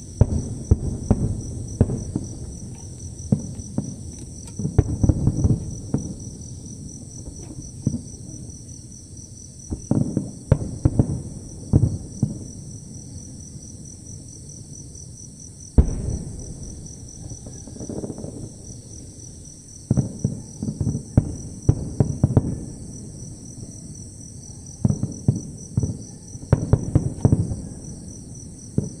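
Aerial firework shells bursting: clusters of rapid booms and crackles come and go, with one sharp single bang about halfway through. A steady high-pitched insect chorus runs underneath.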